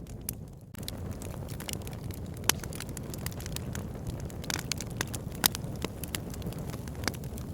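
Wood logs burning in a fireplace: a steady low rumble of flame with scattered sharp crackles and pops, a few louder pops around the middle.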